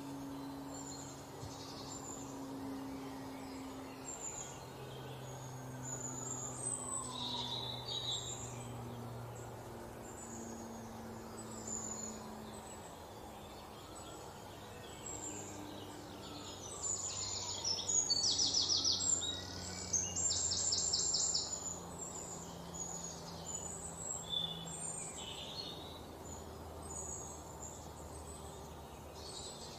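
Birds chirping on and off, with a rapid high trill about two-thirds of the way through as the loudest sound. Faint low tones hum underneath, shifting in pitch every few seconds.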